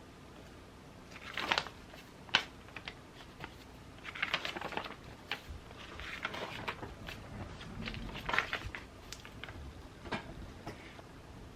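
Paper and journaling supplies being handled: short bursts of rustling, scratching and light clicks every second or two, over a faint steady hiss of rain.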